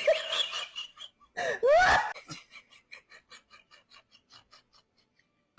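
A cat meowing in two short bursts of arching calls, followed by a run of faint, fading ticks.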